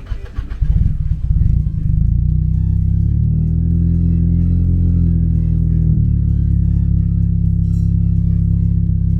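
Nissan Silvia S15 Spec R's SR20DET turbocharged four-cylinder engine starting: about a second of uneven cranking and firing, then it catches and settles into a steady idle, running a little faster for a couple of seconds mid-way before easing back.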